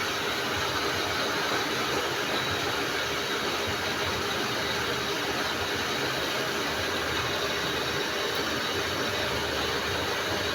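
Electric water pump running steadily.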